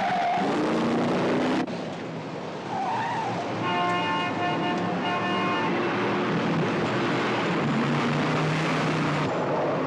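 Film car-chase soundtrack: car engines running hard with tires squealing. The squeal stops about half a second in, the sound changes abruptly a little later, and a steady pitched tone is held for about two seconds in the middle.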